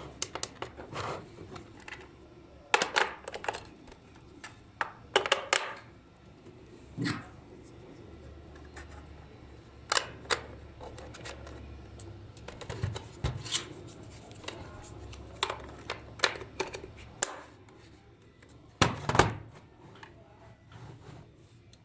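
Irregular clicks, taps and knocks of small toy parts being handled and fitted by hand, coming in short clusters with pauses between, over a faint low hum.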